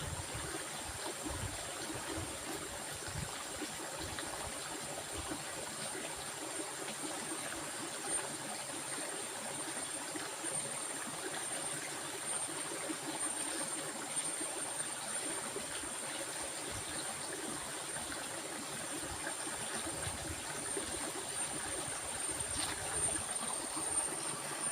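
Stream water flowing steadily, with a thin, high steady tone running above it.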